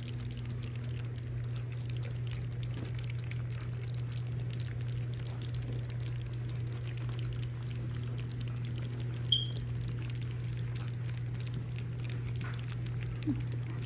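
French bulldog puppies eating and lapping at food and water, with many small wet smacking and licking sounds over a steady low hum. A brief high squeak comes about nine seconds in.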